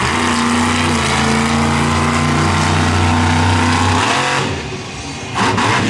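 Monster truck engine running loud and steady, then backing off about four seconds in, followed by a short burst of noise near the end.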